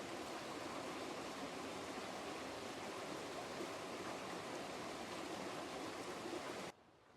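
Steady rushing water noise, cutting off abruptly shortly before the end.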